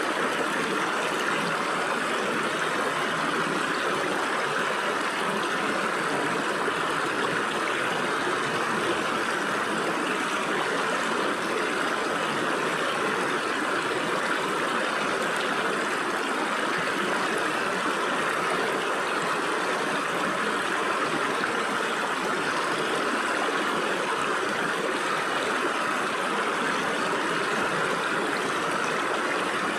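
Stream water flowing and splashing through gaps between rocks: a steady rushing and gurgling with no pauses.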